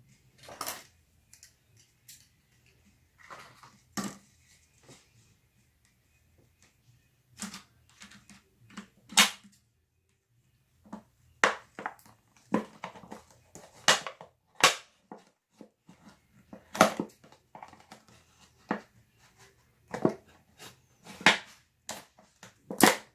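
Thin plastic 2-liter soda bottle crackling and crunching as scissors are forced into it to start a cut, with irregular sharp snaps and crinkles that come thicker in the second half.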